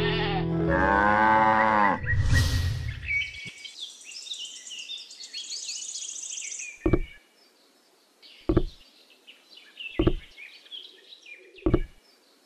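A farm animal's call, a bleat, near the start, followed by a few seconds of many birds chirping. Then four dull knocks, about one and a half seconds apart, over near silence.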